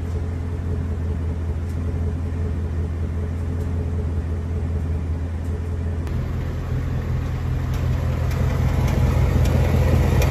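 Ford Mustang GT's 5.0 V8 idling steadily, with faint irregular light ticks over the hum. This is the so-called 'BBQ tick' of these engines. About six seconds in the sound shifts and grows a little louder, heard from under the car.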